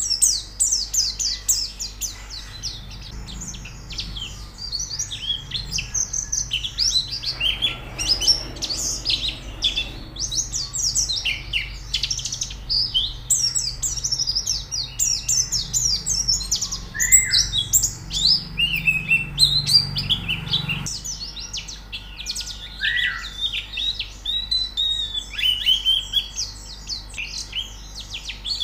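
Pleci (white-eyes) twittering and singing in a rapid, dense, overlapping stream of high chirps and short trills.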